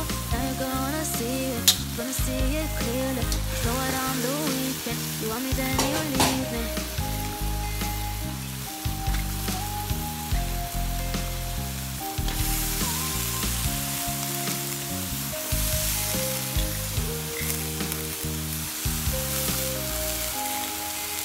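Beef frying in oil in an aluminium wok, sizzling, with a spatula clacking and scraping against the metal. Water spinach goes in, and the hiss of frying grows stronger about halfway through. Background music with a singing voice in the first few seconds plays throughout.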